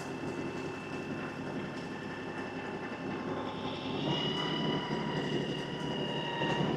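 LS XR315 compact tractor's diesel engine running, with a steady whine from the hydraulics as the front loader and grapple are worked; about four seconds in the whine steps up and gets louder under load.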